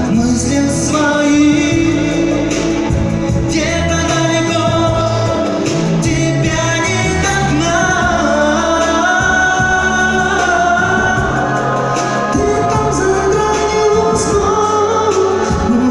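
A pop song with a sung vocal over a steady bass and beat.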